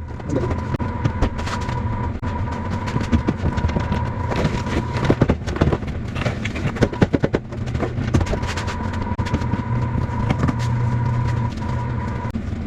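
A motor running with a steady hum and whine, which cuts out and starts again partway through, over frequent knocks and clatter.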